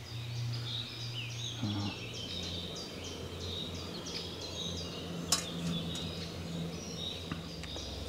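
Woodland birds chirping and singing, many short calls, over a steady low hum. One sharp click about five seconds in.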